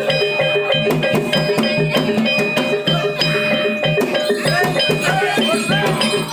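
Javanese gamelan music accompanying a barongan dance: ringing metallophone and gong-chime notes over a steady, quick drum pattern. From about halfway, sliding high notes come in over the ensemble.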